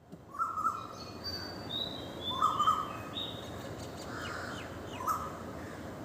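Birds calling over a steady background hiss: a lower call repeated three times, about two and a half seconds apart, with higher, thinner chirps in between.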